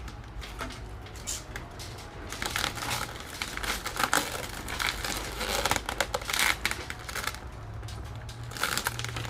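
Vinyl wrap film crinkling and crackling in irregular bursts as it is handled and stretched over a car bumper, over a faint low hum.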